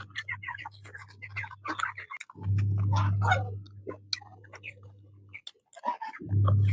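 Close-miked chewing and lip-smacking of someone eating spicy chicken curry with rice: many short wet clicks and smacks. A low hum comes in a couple of seconds in, stops about three seconds later and starts again near the end.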